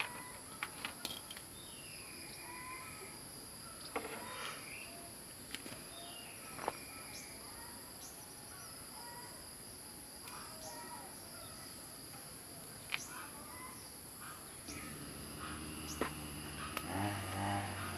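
Outdoor ambience of insects (crickets) giving a steady high-pitched chirring, with short bird chirps and scattered light clicks. A low hum comes in near the end.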